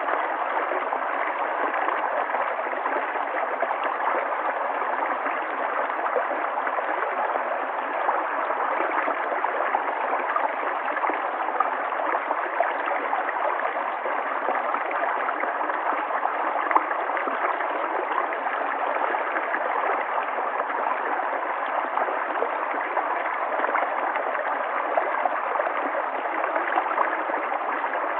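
River water flowing steadily: an even rush of running water with fine splashing and gurgling through it.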